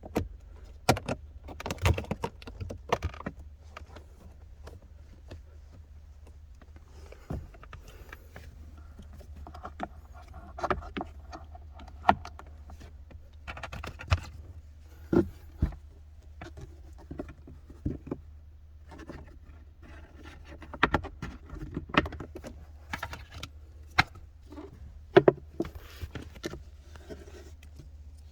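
Scattered clicks, knocks and rustling from hands working on a car's cabin air filter and its housing, over a steady low hum.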